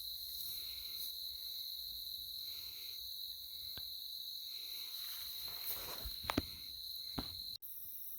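Steady, high-pitched chirring of an insect chorus in the field, with a fainter pulsing layer beneath it. A few short low thumps come about six to seven seconds in, and the insect sound cuts off abruptly near the end.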